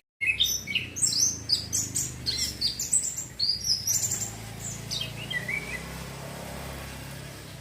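Male orange-headed thrush singing a fast run of varied high chirps and slurred whistles, which stops about five seconds in. The male is still learning its song, practising its rapid and loud song styles (ngecir and ngeplong).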